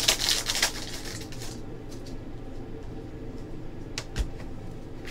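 Trading cards being handled and slid against each other, a papery rustle for about the first second and a half, then two short clicks about four seconds in.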